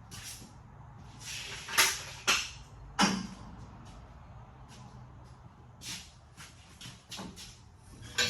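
Scattered sharp knocks and clanks of hands-on work, the loudest three coming close together a couple of seconds in, with a few weaker ones later.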